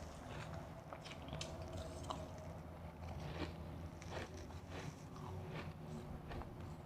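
Close-miked chewing of refrozen powdery ice: soft, irregular crunches.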